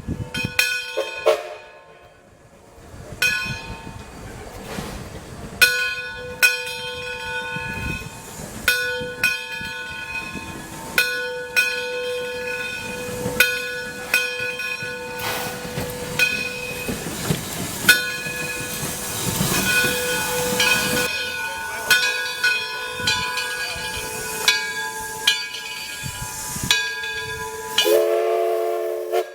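Steam locomotive bell ringing in steady strokes, a little under one a second, with steam hissing from the engine. Near the end comes a short whistle blast.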